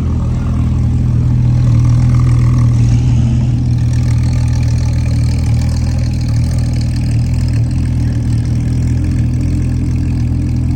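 A car engine running steadily at low revs close by, a deep, even drone with no change in speed.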